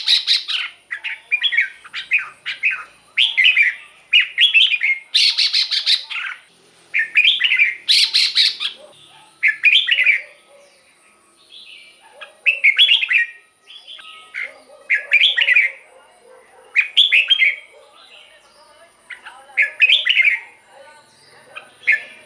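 Red-whiskered bulbul singing short, warbled phrases, packed closely in the first half and then repeated every second or two. A few sharp clicks come about five and eight seconds in, and a faint steady high whine runs underneath.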